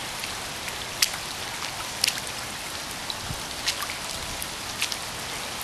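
Pouring rain: a steady hiss of rain falling, with scattered sharp taps of drops close by, the clearest about one and two seconds in.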